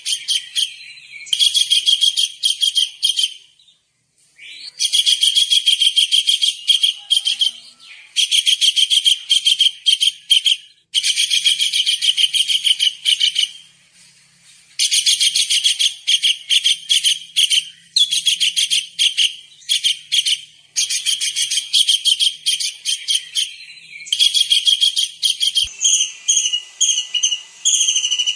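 Kingfisher (tengkek udang) calling in fast, high-pitched chattering trills, in phrases of two to three seconds with short pauses between. Near the end a steadier high whistled note joins in.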